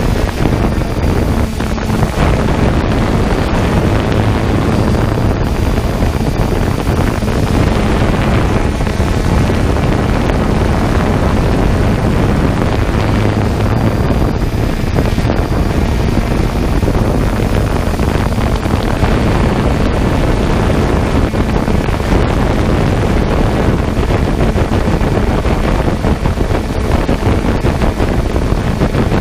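3DR Solo quadcopter in flight: steady wind rush buffeting the microphone over the even hum of its motors and propellers.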